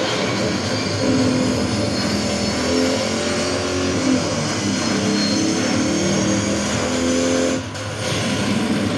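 Several motorcycle engines running loudly at once in street traffic, their pitches rising and falling with the throttle. The sound dips briefly near the end.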